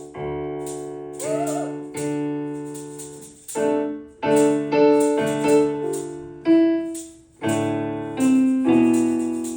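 Piano playing an instrumental passage between sung lines: chords struck about once a second and left to ring and fade.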